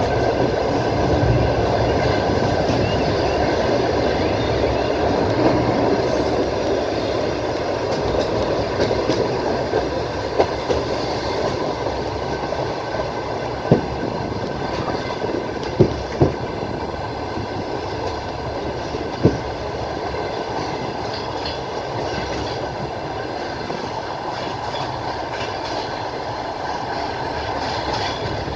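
Passenger train running at speed, heard from inside a carriage at the window: a steady rumble of the wheels on the track, with a few sharp clicks as the wheels pass over rail joints in the middle of the stretch.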